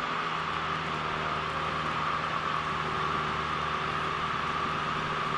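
Cabin noise of a Cessna 172L in flight: the four-cylinder Lycoming engine and propeller drone steadily under a hiss of airflow.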